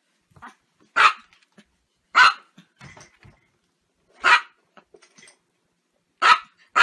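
A small chihuahua barking: five short, high yaps spaced a second or two apart, the last two close together near the end.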